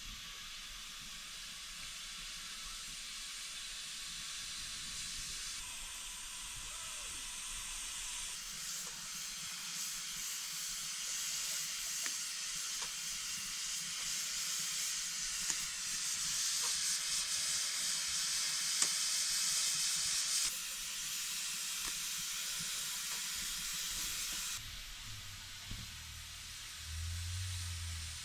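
Food sizzling in hot oil in a cooking pot: a steady frying hiss with a few faint crackles. It swells louder through the middle and changes level abruptly a few times.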